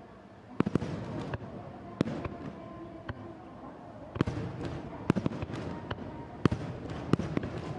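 Aerial fireworks shells bursting: about a dozen sharp bangs with short echoing tails at irregular intervals, some coming in quick clusters.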